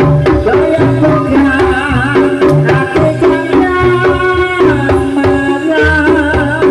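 Live jaranan (kuda lumping) ensemble music: hand drums keep a quick, driving beat under a wavering, sustained melody line.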